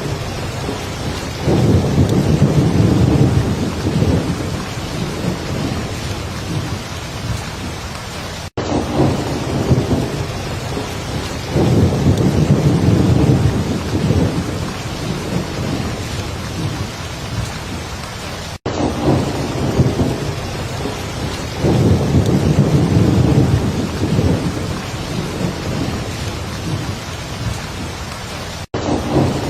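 Heavy rain falling steadily, with a low rumble of thunder swelling and fading about every ten seconds. The track repeats, with a brief dropout at each repeat, three times in all.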